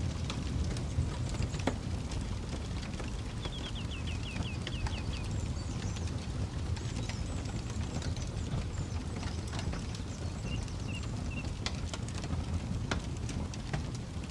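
Campfire crackling, with scattered sharp pops over a steady low rumble. A bird calls a quick run of repeated notes a few seconds in, and chirps again briefly later on.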